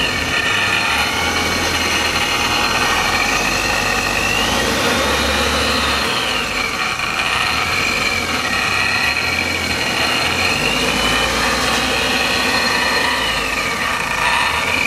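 Honda S2000's four-cylinder engine running with a freshly installed Paxton centrifugal supercharger, a whine rising and falling a few times as the engine speed changes. The engine has just been started after the install and is running on a rough fuel table that is still being adjusted.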